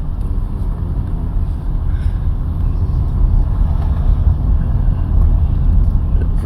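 Car driving, with a steady low road-and-engine rumble.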